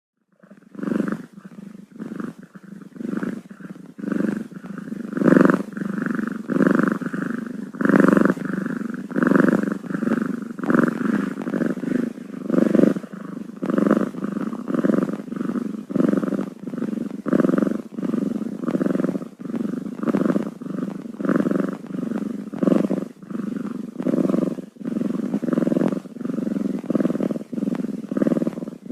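Cat purring close up, a continuous purr that swells and fades with each breath, roughly one swell every second and a quarter.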